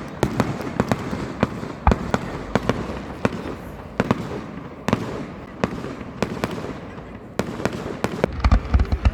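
Fireworks display: a rapid run of sharp bangs and crackles, several a second. About eight seconds in, the bursts get denser and louder, with heavy deep booms.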